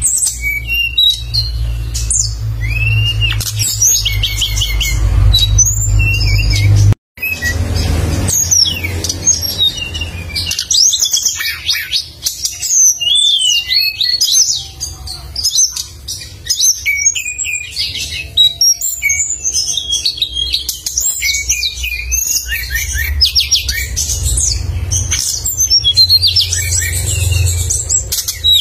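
A caged songbird singing busily, with rapid, sharp chirps, trills and quick sweeping notes pouring out one after another, over a low rumble. The audio drops out briefly about seven seconds in.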